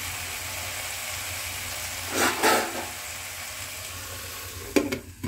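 Okra and potato stir-fry sizzling steadily in an oiled pan, cooked dry with no water added, with a brief louder sound about two seconds in. Near the end a few sharp metallic clinks as a steel lid is set onto the pan.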